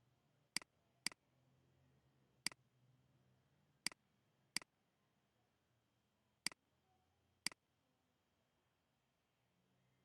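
Seven sharp single clicks of a computer mouse, spaced irregularly over about seven seconds, over a faint low hum.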